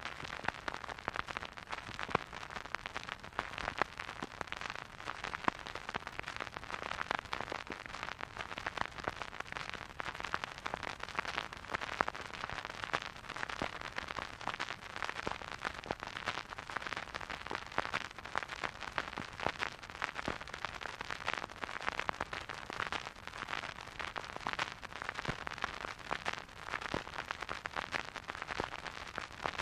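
Vinyl record surface noise from a turntable: a steady soft hiss thick with small crackles and pops as the stylus rides the groove.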